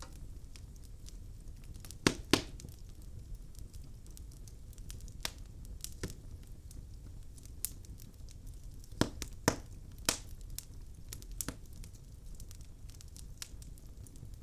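Wood fire crackling in a fireplace: burning logs give off scattered sharp pops and snaps over a low steady rumble, with the loudest pops in pairs about two seconds in and again around nine to ten seconds in.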